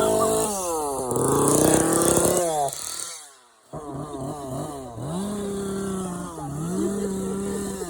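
Two-stroke chainsaw engine revving up and down: a high engine note that falls away, drops out briefly about three seconds in, then revs up and holds twice more.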